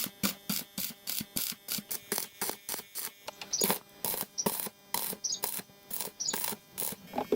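Repeated mechanical clicking, about four clicks a second. From about halfway it gives way to longer, stronger strokes a little under a second apart.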